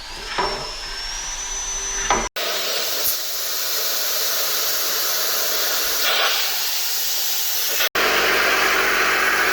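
Compressed-air airline blowing a steady loud hiss, clearing wire-brushed debris off the engine block's sump mating surface so the sump will seal. The sound breaks off abruptly twice. The first couple of seconds instead hold a short rising whine.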